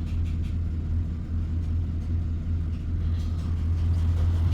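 2008 Chevrolet Silverado's 6.0-litre V8 idling with a steady low rumble, running smoothly now that the cylinder 6 misfire that made it shake has been fixed.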